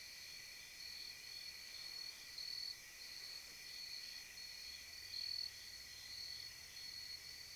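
Chorus of crickets trilling: a high, steady shrill that swells and fades in repeated pulses.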